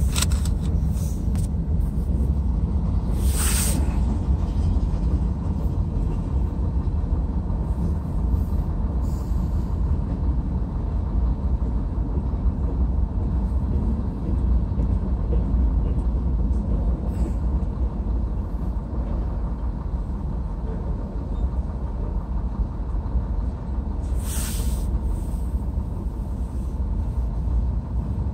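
Freight train cars rolling through a grade crossing: a steady low rumble, with two brief hisses, one a few seconds in and one near the end.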